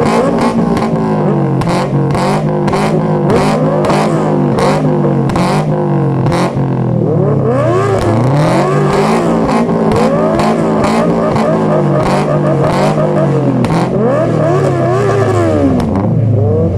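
Performance exhaust on an engine being revved: the pitch rises and falls in repeated blips over a steady running note, with sharp pops mixed in.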